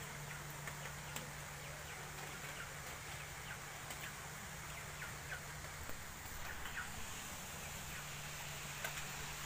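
Faint, scattered short bird chirps over a steady low hum and hiss of background noise.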